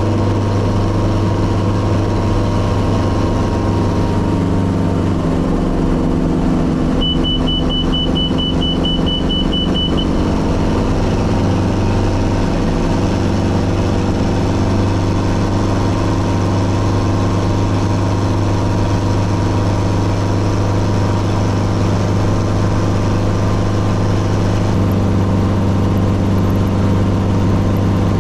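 Helicopter engine and rotors running with a steady, even drone and low hum. A string of quick high beeps sounds for about three seconds a few seconds in.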